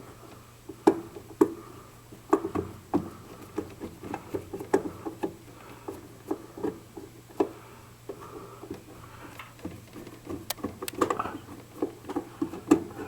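Hand work on sheet-metal ductwork as screws go back in: irregular clicks, taps and a few sharp metallic knocks, over a faint steady low hum.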